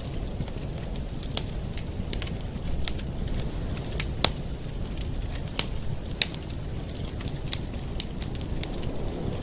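Campfire burning: steady low rumble of the flames with irregular sharp crackles and pops of wood, a few a second, a couple of louder pops near the middle.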